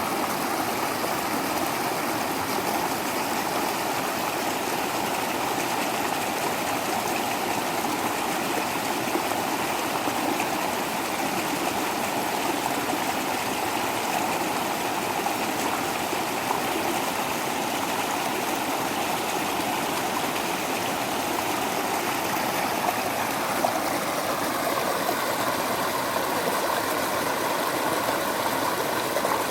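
Waterfall: water falling and rushing steadily, an even unbroken splashing noise.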